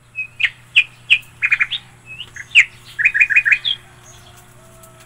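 A small bird chirping: a quick run of short, sharp notes, some in fast groups of three or four, stopping about four seconds in. A faint steady low hum runs underneath.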